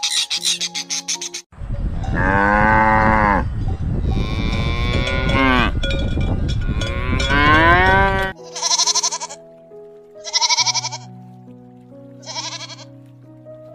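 Cattle mooing: three long moos, each bending in pitch, over background music notes. After them come three shorter, higher-pitched animal calls about a second and a half apart.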